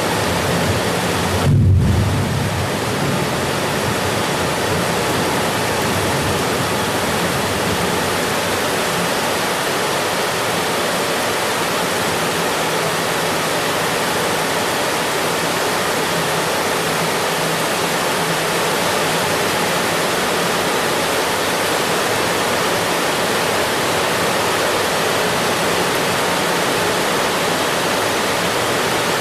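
Steady, dense rain falling, an even hiss. Just under two seconds in there is a brief low thump.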